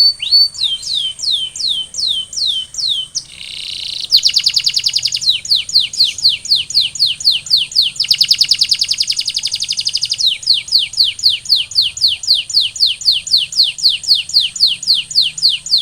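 Canary singing in tours: series of quick, repeated falling whistled notes, about three to four a second, with a short buzzy trill about three and a half seconds in before the note series resumes.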